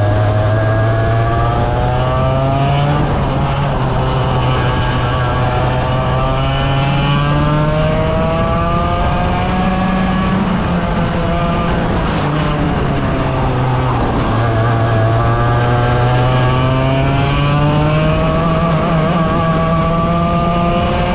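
100cc racing kart engine running at full throttle, its note climbing steadily in pitch through each straight and dropping sharply when it lifts off for a corner, about four times over.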